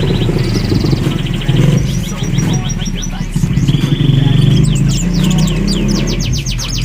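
Caged sunbirds chirping with high, rapid trills and strings of quick repeated notes, over background pop music.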